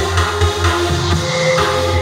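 Recorded music played through Børresen Acoustics X6 tower speakers, with heavy bass and a steady beat.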